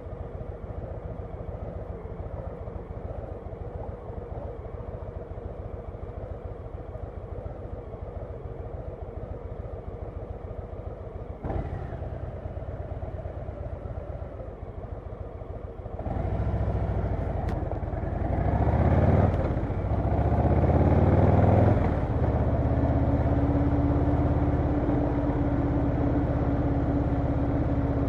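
Harley-Davidson Low Rider S V-twin engine running at a low, steady idle, with a single knock partway through. About two-thirds of the way in it gets louder, the revs rise and fall a couple of times, then it settles into a steady, louder run.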